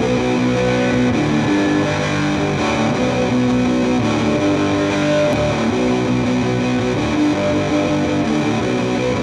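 A live rock band plays the instrumental opening of a song, led by distorted electric guitar, with no singing.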